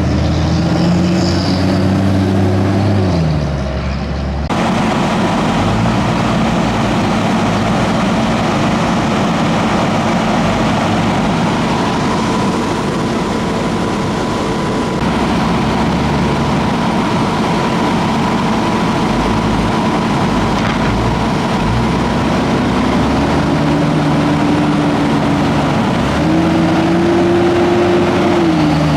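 Fire engine's diesel engine running under load as the truck drives, its pitch dropping as it shifts about three seconds in and climbing again near the end, over steady road and engine noise.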